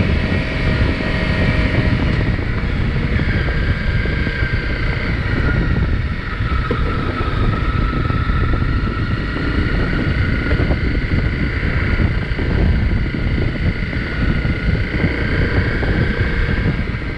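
Single-cylinder off-road engine running steadily while under way, its pitch wavering up and down with the throttle, with wind buffeting the microphone.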